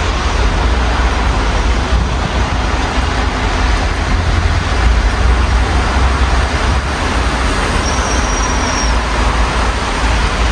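Steady rain heard through an open window, over a constant low rumble of city traffic.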